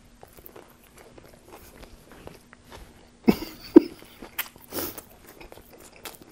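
Close-miked chewing of a mouthful of a Subway Italian BMT flatbread sandwich: soft wet mouth clicks and smacks, with two short louder sounds about three and a half seconds in.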